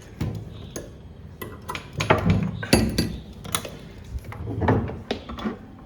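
Irregular clinks and knocks of small hard objects being handled, a dozen or so sharp taps with the loudest around two to three seconds in.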